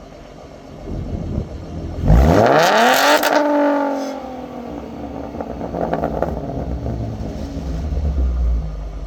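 Ford Mustang 3.7L V6 through a Roush axle-back exhaust, idling low, then revved once sharply about two seconds in. The pitch climbs fast and falls back to idle within about two seconds.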